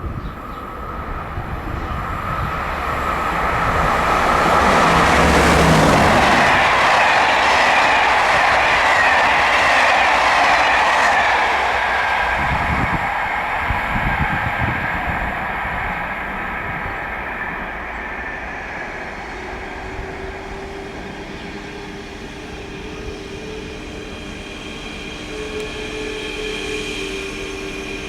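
A train running through the station. It grows louder over the first few seconds, is loudest about six seconds in, then slowly fades, with steady whining tones over the rolling noise.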